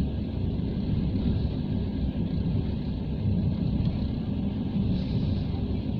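Passenger train running at speed, a steady low rumble of the wheels and carriage heard from inside the coach.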